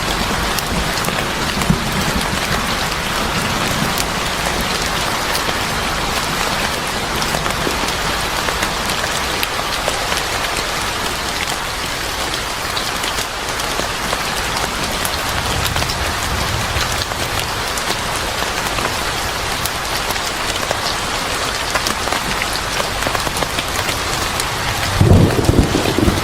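Steady heavy rain, with scattered sharp pops from a crackling fire mixed in. A low rumble of thunder rises near the end.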